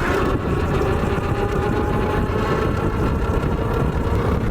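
Surron Light Bee electric dirt bike riding by: a steady motor whine over loud wind and tyre rumble.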